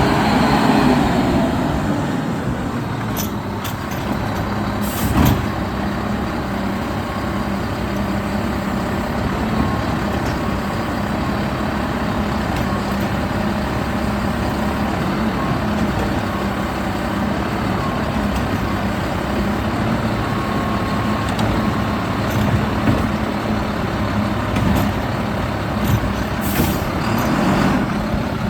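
Mack LEU garbage truck's diesel engine running steadily, with a short hiss of air about five seconds in and again near the end.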